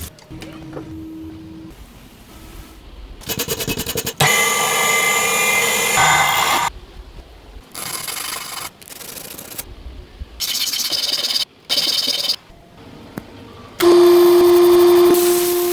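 Workshop tool sounds in short clips cut one after another: power tools running and rubbing or grinding on the work, with pauses between. Near the end a motor starts with a steady hum.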